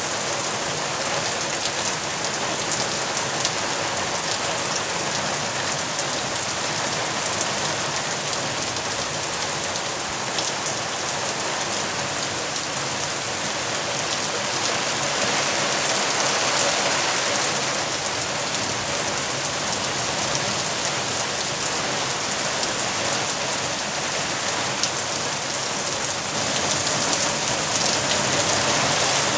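Heavy thunderstorm downpour: a dense, steady hiss of rain falling and streaming off the edge of a corrugated roof. It swells a little about halfway through and again near the end.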